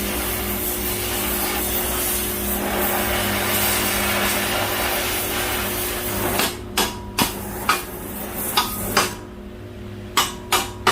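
A steady, harsh hiss of steel being cut for about six seconds, likely square pipe under a grinder, then about nine sharp hammer blows on metal in uneven succession, with a low steady hum underneath.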